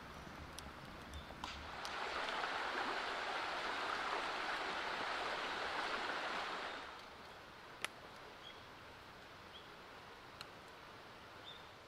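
Wind gusting through forest trees: a rushing sound swells in about two seconds in, holds for about five seconds, then dies away. A few sharp clicks sound over it.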